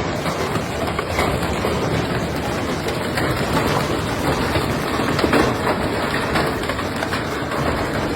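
A severe thunderstorm downpour of hail and rain pelting down: a dense, steady hiss with scattered sharper hits.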